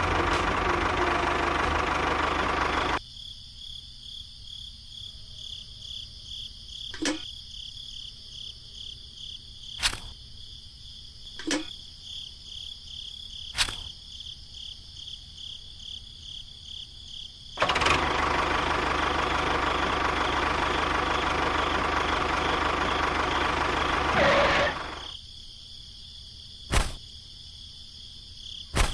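A small motor runs in two bursts, one about three seconds long at the start and one about seven seconds long in the middle. Between and after them, a steady high insect chirping goes on, and a few sharp clicks stand out.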